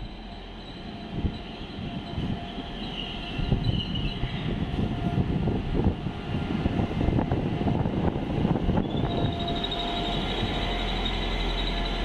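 Trenitalia ATR 220 diesel multiple unit running in alongside the platform: a growing rumble with wheel knocks and a deep engine hum, and high metallic squealing from the wheels or brakes that comes in twice.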